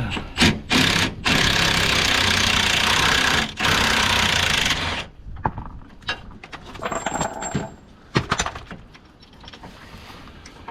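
A power tool run in two bursts, the first about two seconds long and the second about a second, with a steady motor hum under a loud rattle. Scattered light clicks and knocks of tools and metal follow.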